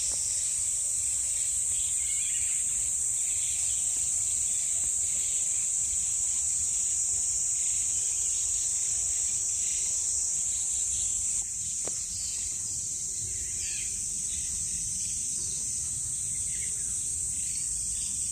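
A steady, high-pitched chorus of insects buzzing in woodland, with birds chirping faintly and intermittently beneath it.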